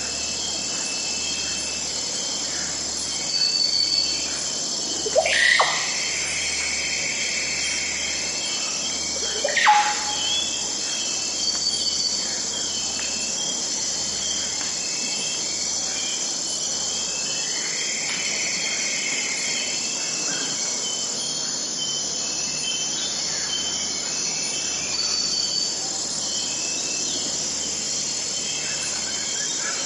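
Forest ambience: a steady, high-pitched chorus of insects such as crickets, with bird calls now and then. The loudest calls are two sharp sweeping calls about five and ten seconds in, and a few shorter notes follow later.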